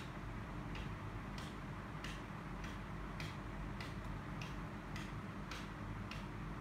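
Steady ticking, about one or two sharp ticks a second at an even pace, over a low steady hum.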